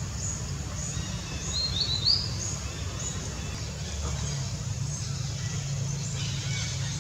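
Birds chirping: short high chirps repeat about twice a second, with a brighter, rising chirp call about two seconds in, over a steady low rumble.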